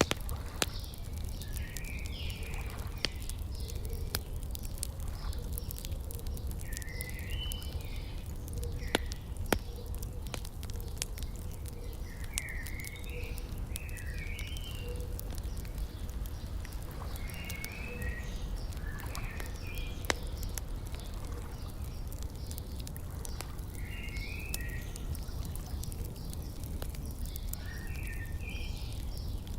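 Wood fire crackling with scattered sharp pops, the loudest a few seconds apart, under a songbird repeating a short warbled phrase about every five seconds, over a low steady rumble.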